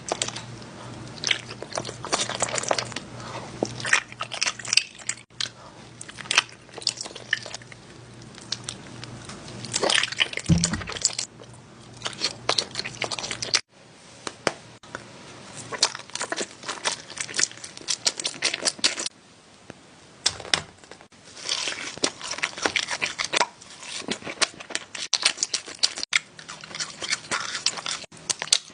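Close-up eating sounds: repeated crunchy bites and wet chewing, with many short clicks and smacks.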